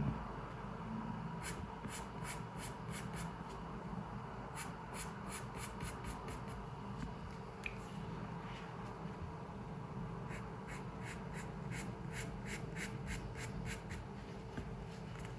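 Pencil drawing on paper: runs of short, quick scratchy strokes with brief pauses between them, over a steady low room hum.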